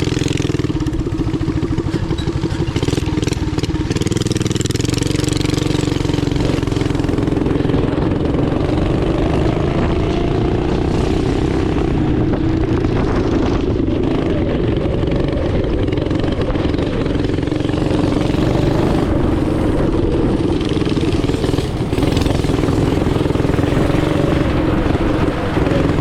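Small single-cylinder engine of a yard go-kart running hard under load, held at high revs with small rises and dips in pitch.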